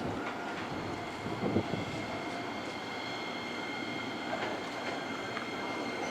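Electric commuter train at a station platform: steady rail running noise with faint, steady high-pitched whining tones.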